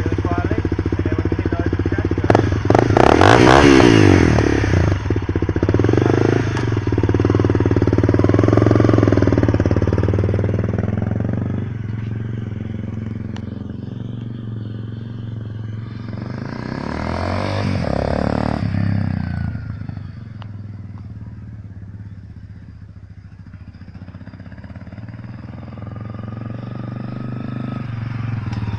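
Honda CRF250L's single-cylinder four-stroke running through an FMF PowerCore 4 exhaust with spark arrestor, opened up in several swells that rise and fall: loudest about three seconds in, again around eight seconds and strongly around seventeen seconds, quieter in between and building again near the end.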